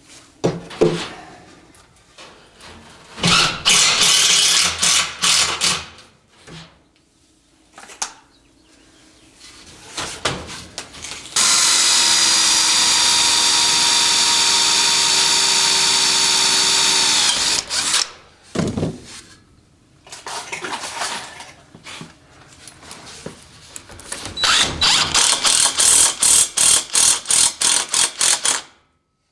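A power drill running steadily for about six seconds in the middle, set among bursts of workshop handling noise, with a run of quick, even rasping strokes near the end.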